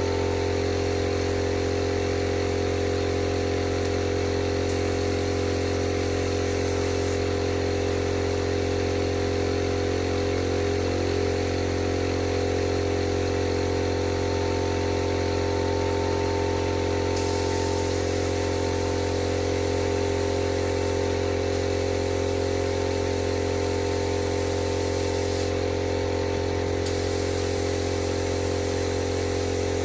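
Steady machine motor hum from the air supply for an HVLP paint spray gun: a constant low drone with steady overtones that never changes in pitch or level.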